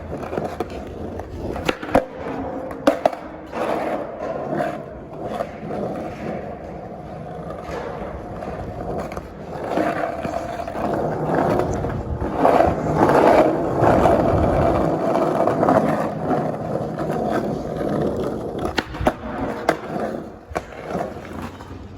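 Skateboard wheels rolling over concrete in a steady rumble, loudest in the middle stretch, with a few sharp clacks about two and three seconds in and again near the end.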